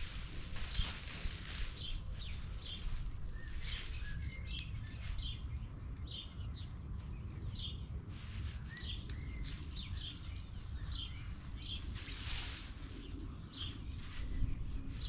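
A small bird chirping repeatedly outdoors, short high calls a little more than one a second, over a low rumble of background noise. A brief rustle comes about half a second in and another about twelve seconds in.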